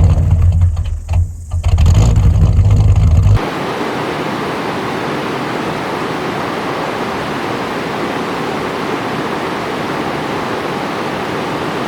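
Engine running with a deep, steady low rumble that cuts off abruptly about three and a half seconds in, followed by a steady, even rush of flowing river water.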